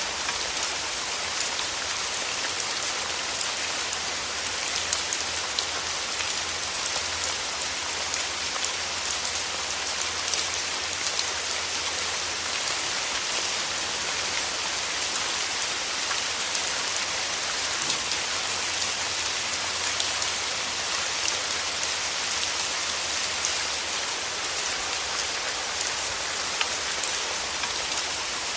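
Steady rain tapping on a window pane: an even hiss with many small, quick drop ticks scattered through it.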